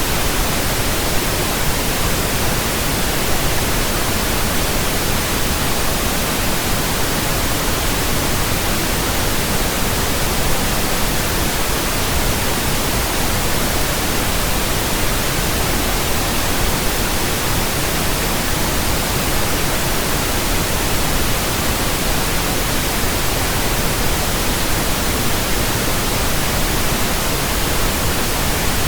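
Pink noise test signal: a steady, even hiss spread across the whole range from deep lows to highs, with no change. It is played as a burn-in track for new speakers, headphones and earphones.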